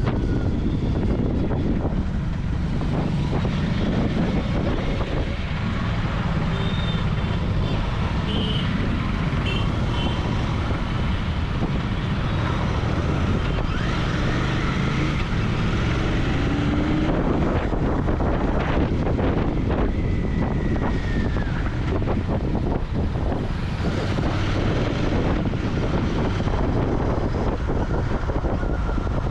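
Royal Enfield Continental GT 650's 648 cc parallel-twin engine running through its exhaust on the move, with steady wind noise on the microphone.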